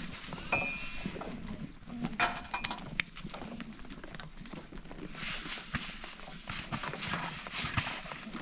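Goats moving about, their hooves scuffling and clattering on the ground, with a few sharp knocks about two to three seconds in and a short high call near the start.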